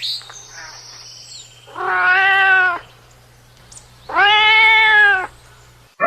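A cat meowing twice, each meow about a second long with a slightly arching pitch, the two a couple of seconds apart.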